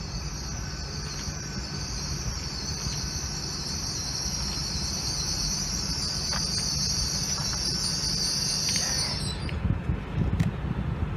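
Steady high-pitched hiss from a train at the platform over a low rumble, the hiss stopping fairly suddenly about nine seconds in.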